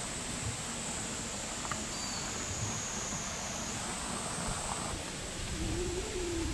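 Outdoor ambience: wind rumbling on the microphone under a steady high-pitched whine that dips slightly and then jumps back up a little past halfway.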